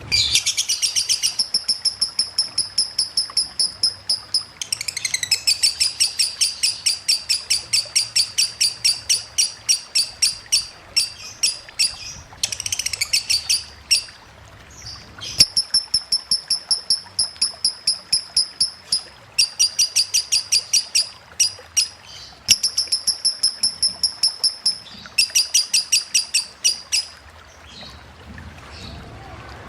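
Lovebird singing the rapid 'konslet' ngetik chatter, a fast even run of high chips, about six or seven a second, in bursts of a few seconds with short breaks between them. Faint running water underneath.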